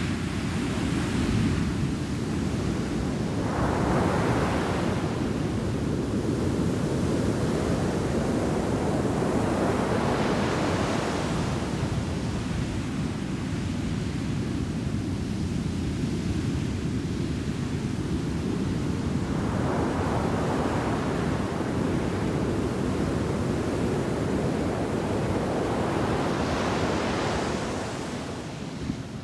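Ocean surf breaking on a beach's shore break: a steady low rumble of water with about five waves crashing in, each a swell of hiss that rises and fades, spaced irregularly a few to about nine seconds apart.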